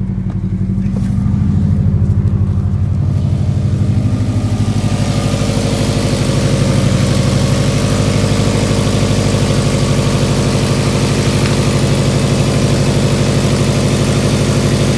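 2007 Subaru Impreza WRX STI's EJ25 flat-four engine idling steadily just after a start. A steady hiss joins it about four seconds in.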